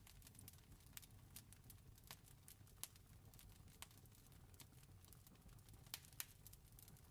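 Wood fire crackling faintly: irregular sharp pops and snaps, a few louder ones, over a low steady rumble.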